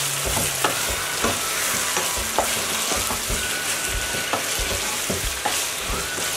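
Chicken pieces and bell peppers sizzling in a nonstick frying pan while a wooden spatula stirs them, with frequent short scrapes and knocks of the spatula against the pan.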